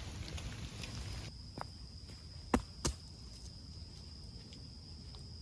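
Light rain hissing in the forest for about the first second, then it drops away abruptly to a quieter stretch with a steady high insect-like tone and a few sharp taps, the two loudest near the middle.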